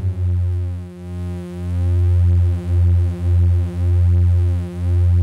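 Alt analog soundscape synthesizer playing a low drone of several voices tuned close together, beating against each other so the sound swells and dips in uneven pulses.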